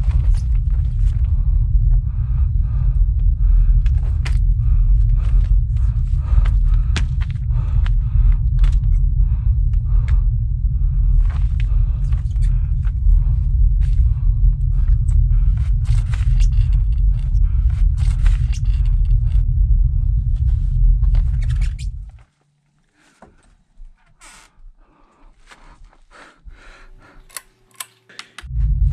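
Irregular crunching footsteps and scrapes over a heavy, steady low rumble. About two-thirds of the way through, the rumble and steps cut off suddenly, leaving a much quieter stretch with faint scattered sounds. The rumble comes back just before the end.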